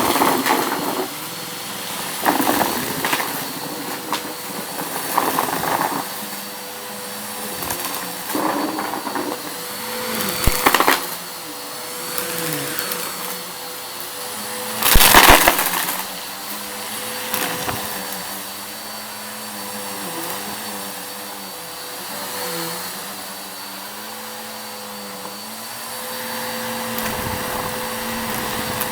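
Vacuum cleaner running steadily over a rug, with loud crackling bursts every few seconds as it sucks up crunchy debris; the loudest burst comes about halfway through.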